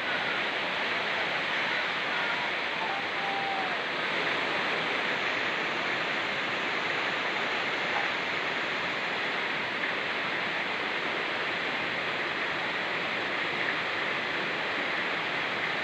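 Fast-flowing mountain river rushing steadily, mixed with falling rain.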